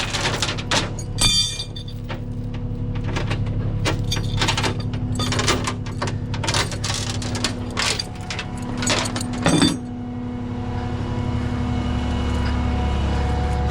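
Diesel engine of a Peterbilt rollback tow truck running steadily, with a string of sharp metallic clicks and clanks over the first ten seconds. After that the engine's low note gets stronger and steadier.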